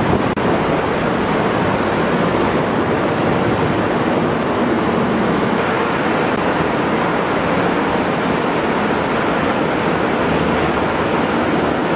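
Steady rush of seawater churning between the hulls of two ships running side by side, with wind on the microphone.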